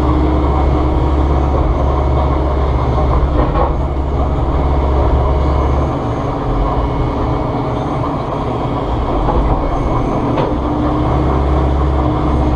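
Volvo ECR145EL excavator's diesel engine running under load with the hydraulics working. The deep rumble eases off about six seconds in and builds again near the end, with a couple of faint knocks.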